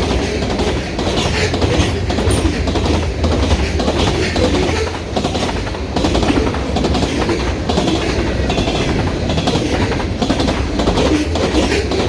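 Freight train cars rolling past at speed: a steady rumble with the wheels clacking over the rails.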